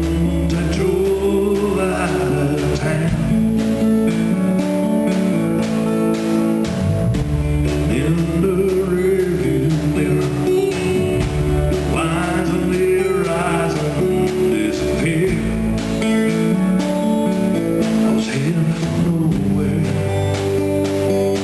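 Live band playing a country-rock song: guitars over bass and a steady beat, in an instrumental passage between sung lines.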